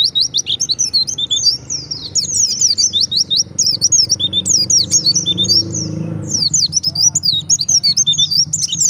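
White-eye (pleci) in full song: a fast, unbroken run of high, sharp twittering chirps.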